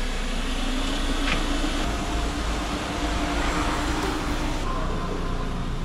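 A Maruti Suzuki Ertiga's engine running at low speed as the car moves slowly off, a steady low hum over a constant rumble.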